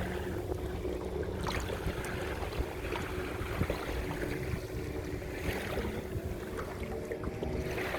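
Watercraft engine running steadily at a distance, over water and wind noise.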